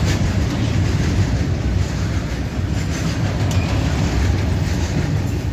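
Indian Railways freight train of BCNL covered wagons rolling past close by: a steady, loud rumble of wheels on rail with occasional faint clacks.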